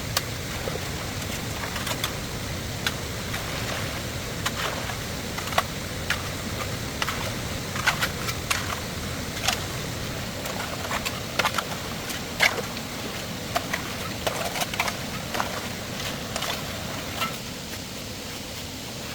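Irregular light clicks and knocks, a couple of dozen in all, over a steady background hiss; they stop shortly before the end.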